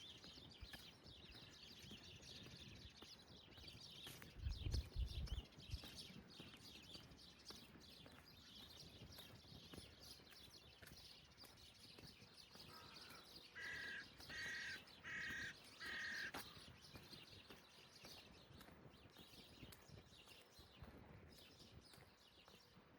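A crow cawing four times in quick succession about halfway through. Faint footsteps and quiet outdoor background run throughout, with a brief low rumble about five seconds in.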